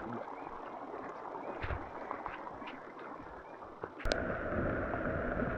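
Steady rain and water ambience, with scattered small drip-like ticks. About four seconds in, the sound jumps to a louder, steadier wash of rain.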